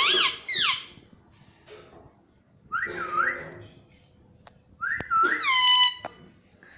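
Ringneck parrot giving whistled calls, three short phrases a couple of seconds apart, each gliding up, dipping and rising again in pitch.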